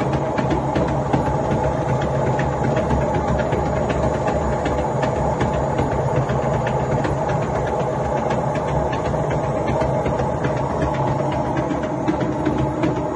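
Washing machine drum turning, a steady mechanical hum with a rapid, irregular clicking rattle over it: the extraneous noise of a common washing machine fault.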